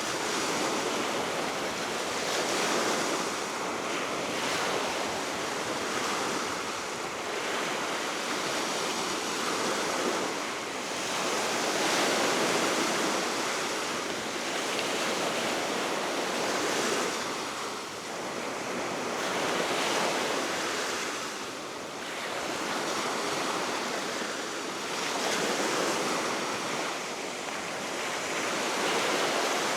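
Waves from the Baltic Sea washing onto the shore below the cliff in a continuous rushing wash that swells and ebbs every few seconds, with steady wind and some wind buffeting on the microphone.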